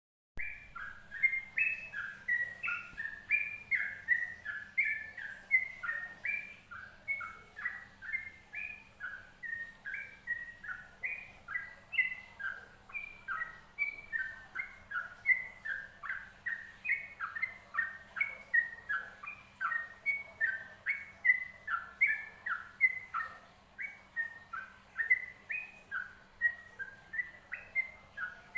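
Yellow-vented bulbul (trucukan) singing without a break: a quick, bubbly run of short chirping notes, several a second, with a faint steady hum underneath.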